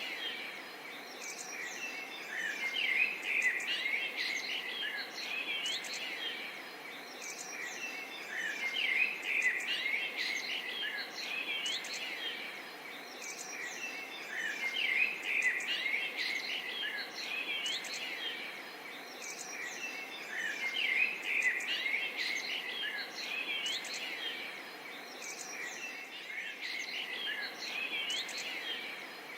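Forest and swamp ambience: many birds chirping and calling in overlapping short, quick notes over a steady hiss of background noise. The chorus swells and eases about every six seconds.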